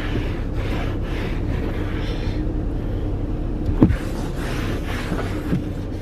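Steady low hum of the car, with repeated soft swishes of a cloth wiping interior surfaces and one brief squeak a little before four seconds in.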